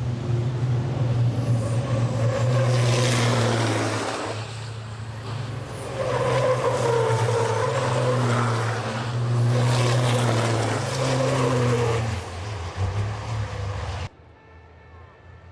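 Race trucks' diesel engines running hard, a steady low drone that swells twice into loud, hissing surges. About a second before the end the sound cuts off abruptly to something much quieter.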